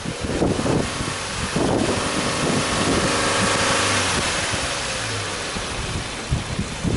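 Subaru Impreza's 2.0-litre flat-four boxer engine running with the bonnet open, heard from the front of the car. Its steady note swells about two seconds in and then eases back over the next few seconds.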